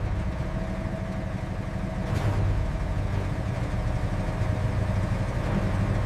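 A heavy engine idling: a steady low rumble with a faint steady tone above it.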